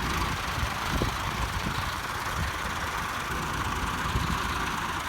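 Tractor's diesel engine running steadily, with uneven low thumps.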